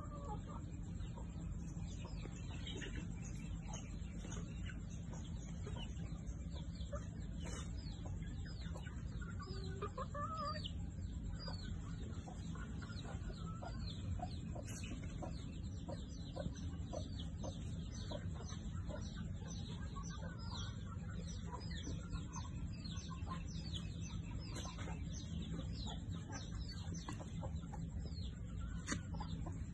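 Birds chirping: many short, quick calls, over a steady low background hum.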